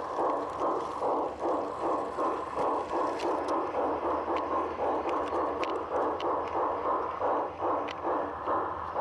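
Large-scale model steam locomotive's onboard sound system chuffing steadily, about three chuffs a second, with scattered light clicks.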